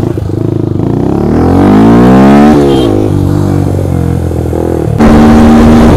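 Yamaha R15 motorcycle engine revving hard under acceleration. Its pitch climbs for about two seconds, drops at a gear change and climbs again, then about five seconds in it turns suddenly louder and steady at speed.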